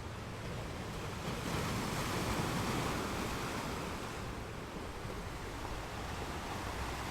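Ocean waves washing onto the beach: one wave swells about a second in and dies away a few seconds later, over a low steady rumble of surf.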